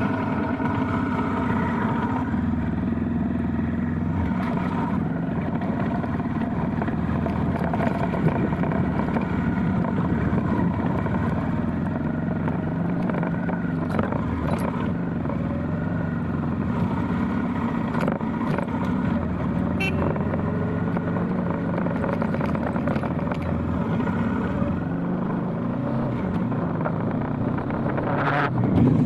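Motorcycle engine running steadily while riding, its note shifting now and then.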